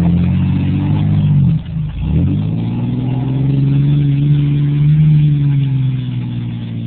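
Truck engine running hard at high revs, dropping off sharply about a second and a half in and climbing straight back up, then holding a steady high note that swells slightly and eases near the end.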